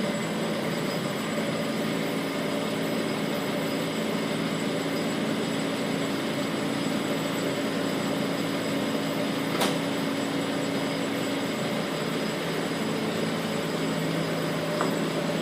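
Mahindra Swaraj combine harvester's diesel engine running steadily, with a sharp click about ten seconds in.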